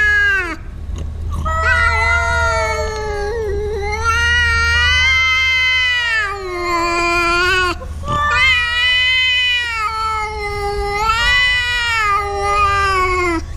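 Cat yowling in a string of long, wavering, drawn-out calls, about six in a row with short breaks between them: the threatening yowl of a cat warning off another cat that has come into its shelter.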